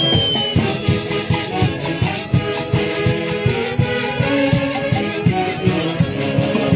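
Live Peruvian folk orchestra playing: several wind instruments carry a melody together over a steady percussion beat.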